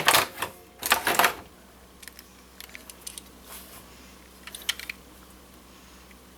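Clicks and rattles from handling a toy airplane model: a few loud ones in the first second and a half, then scattered faint clicks.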